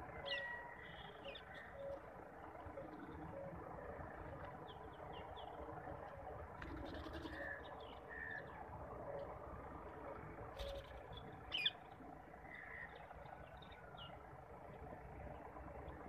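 Small birds chirping in short, scattered calls over a steady outdoor background hiss, with a few brief sharp sounds in between; the loudest of these comes about three-quarters of the way through.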